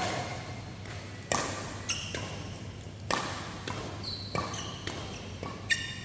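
Badminton rally: sharp smacks of rackets hitting the shuttlecock about once a second, with short high squeaks of shoes on the court floor.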